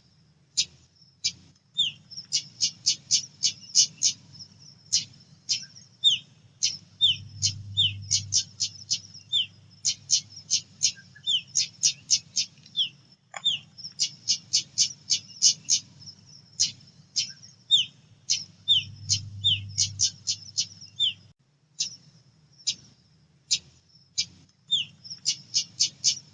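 Female pied bushchat (decu) calling: quick runs of short, sharp high chips, mixed with short downward-slurred notes, repeated in bursts throughout.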